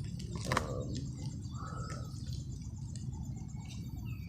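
Faint, scattered bird chirps over steady low background noise.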